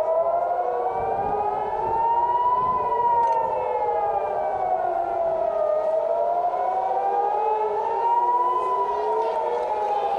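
Civil-defence air-raid sirens wailing, several of them rising and falling out of step with one another, each wail taking about six seconds: a warning of incoming rockets.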